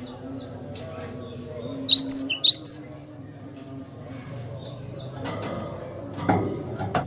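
Cinereous tit (glatik batu) singing: a quick run of four loud, clear whistled notes about two seconds in, among fainter chirps. A steady low hum runs underneath, and a short sharp sound comes near the end.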